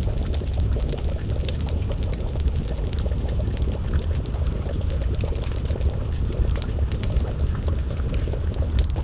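Wood fire crackling with frequent small irregular pops over a steady low rumble, with a pot of stew bubbling as it simmers over the flames.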